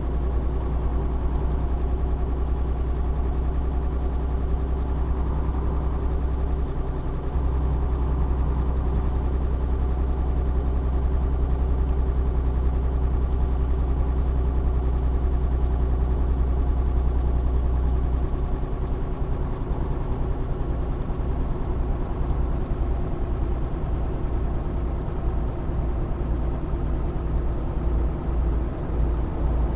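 Tanker truck's engine running while the truck is under way: a steady low drone that turns uneven and pulsing about two-thirds of the way through.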